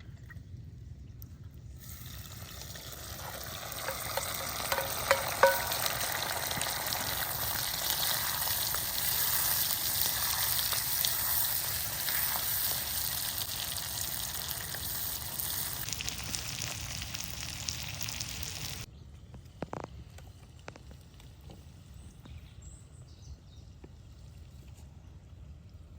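Food frying in a hot pan: a dense, crackling sizzle that builds up about two seconds in and cuts off suddenly about two-thirds of the way through. A quieter background with a few faint clicks follows.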